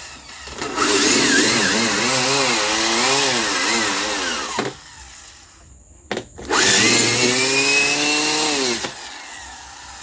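Power drill boring holes through a fridge body for drainage, run twice: once for about four seconds and again for about two and a half, its pitch wavering as the bit bites and dropping as it winds down each time.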